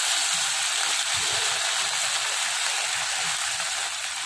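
Cut idli pieces deep-frying in hot oil in a pan: a steady, even sizzle.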